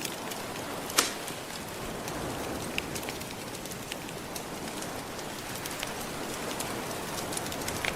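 Wood fire crackling with scattered sharp pops, one louder pop about a second in, over a steady wash of ocean surf.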